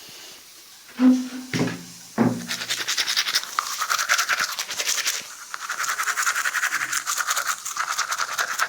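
A broom (jhadu) sweeping a floor in quick, rhythmic, scratchy strokes, starting about two seconds in, after three short low bumps.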